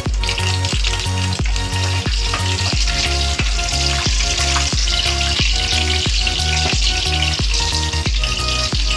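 Mustard seeds, nuts, curry leaves and green chillies sizzling in hot oil in a kadai as they are stirred with a spatula. The sizzle gets louder about two seconds in. Background music with a steady beat plays underneath.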